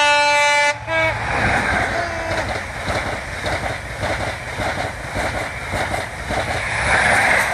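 LNER express train sounding its two-tone horn in short blasts, then passing at speed with a steady rush of wheel and air noise that swells again near the end.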